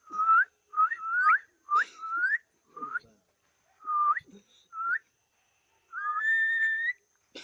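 Pet talking bird whistling: a string of short rising whistles, then one long level whistle near the end.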